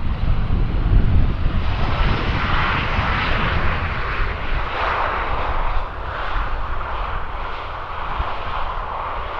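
Airbus A320 jet engines (CFM56) rushing as the airliner arrives on the runway, with gusts of wind rumbling on the microphone at first.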